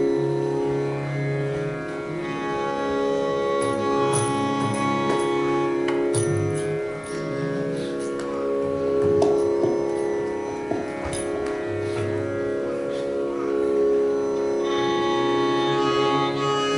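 Carnatic music in raga Chittaranjani: a steady drone under a slow melodic line, with a few sharp percussive strokes.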